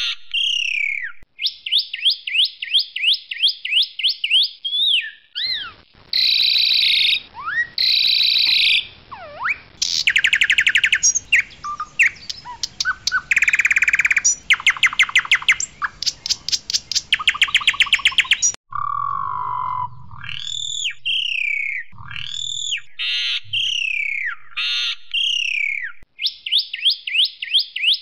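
Asian pied starling singing loudly: a varied run of whistled, down-slurred notes and rapid trills, with a long middle stretch of harsh, fast-repeated rattling notes.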